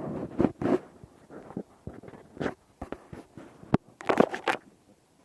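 Irregular rustling and scraping from movement through dry vegetation on a walk, with a single sharp click a little after three and a half seconds in.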